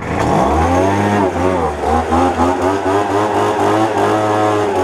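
Poulan Pro gas leaf blower's two-stroke engine catching on a cold start and running, its pitch rising and falling several times as the throttle is worked.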